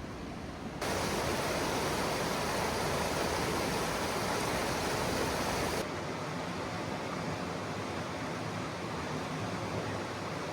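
Steady rushing noise with no distinct events. It jumps louder about a second in and drops back somewhat about six seconds in.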